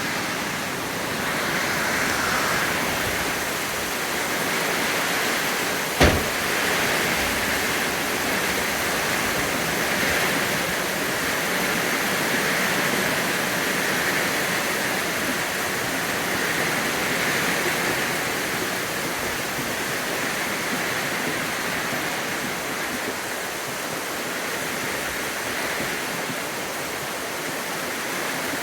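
Steady rain falling, an even hiss, with one sharp knock about six seconds in.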